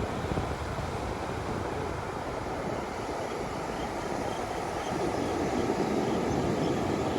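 Surf on a beach: a steady rush of waves washing in, swelling again about five seconds in.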